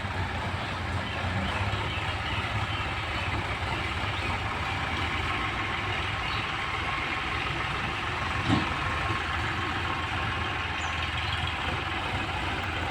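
Diesel engine of a tractor or loader running steadily at idle, with one short knock about two-thirds of the way through.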